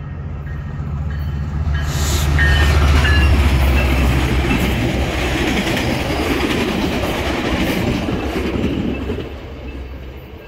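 Metrolink commuter train passing at speed: the low drone of the diesel locomotive swells as it comes by in the first few seconds. Then the wheels of the bilevel coaches run on the rails, and the noise fades about nine seconds in as the train moves away.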